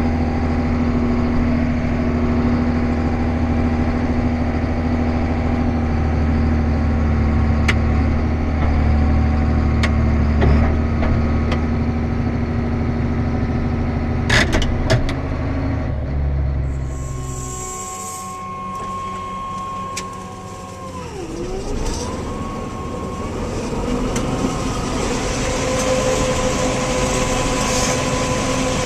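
A vehicle engine running steadily, with a few sharp clicks about two-thirds of the way through. The low engine rumble then drops away and a whining tone sags and rises again before steady running noise builds back up.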